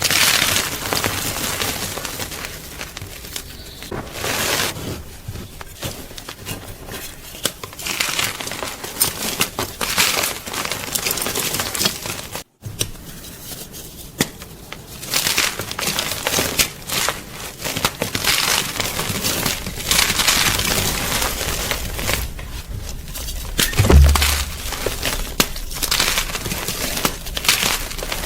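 Gym chalk being crushed, with repeated crunching and crumbling throughout. A single loud low thump comes near the end.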